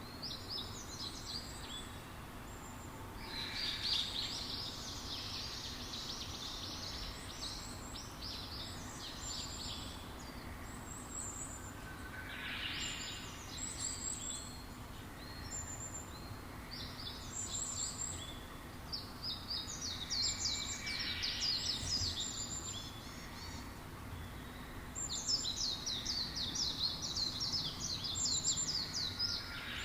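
Small songbirds chirping and twittering in quick, high-pitched bouts every few seconds, over a steady background hiss.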